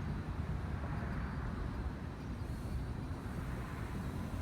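Steady low rumble of wind on the microphone, with the faint whine of a small RC airplane's brushless electric motor passing in the distance about two and a half seconds in.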